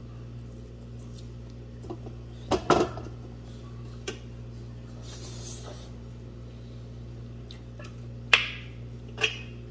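Eating sounds from a meal of buffalo leg soup and rice: a few separate sharp clicks and knocks of tableware against a dish, the loudest two near the end, over a steady low hum.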